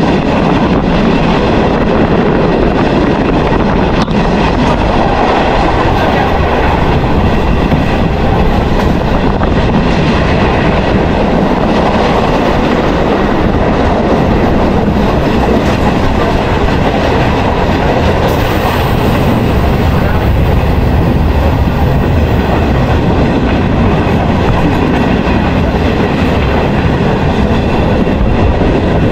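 Passenger train running along the track, heard from on board: a steady, continuous running noise of the carriage and wheels.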